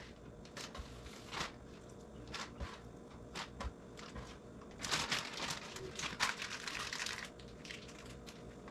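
Kitchen handling noises: scattered light clicks and knocks with crinkling rustles, busiest about five to seven seconds in.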